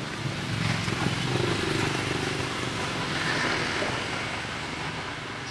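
Road traffic noise, with motor engines running steadily close by.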